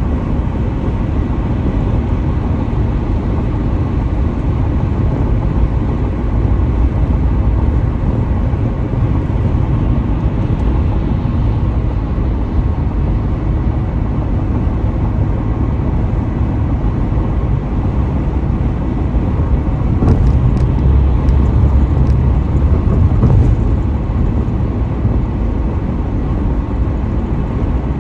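Car driving at highway speed: a steady low rumble of road, tyre and engine noise, swelling louder for a few seconds about two-thirds of the way through, with a few faint ticks during that stretch.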